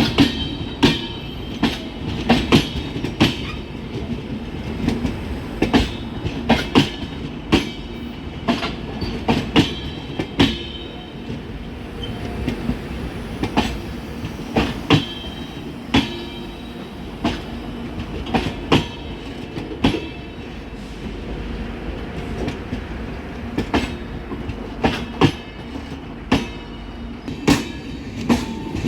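Coaches of an Indian Railways express train rolling past slowly as it pulls out of the station: the wheels click irregularly over rail joints and points, sometimes in quick pairs, over a steady rumble.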